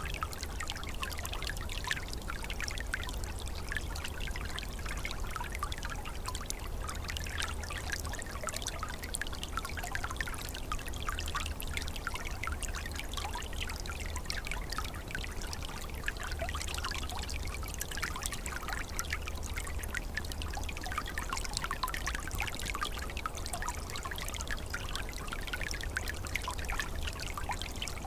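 Small shallow stream flowing and trickling over stones, a steady babble of water with many small splashes and gurgles.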